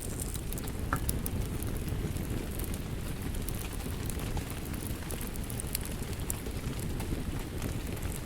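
Wood fire crackling with scattered sharp pops over a steady rush of rain.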